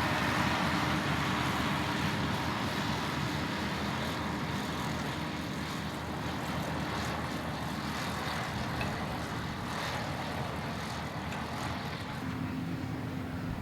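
A vehicle engine running steadily, with a constant low hum under a haze of wind or road noise.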